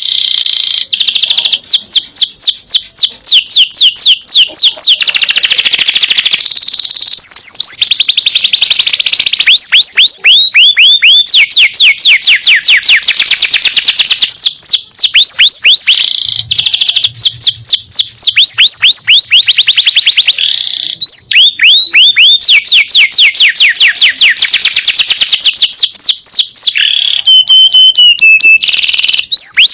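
Domestic canary singing a long, loud song of fast trills, each made of rapidly repeated notes that fall in pitch, broken by brief pauses. Near the end it holds a few short steady whistles.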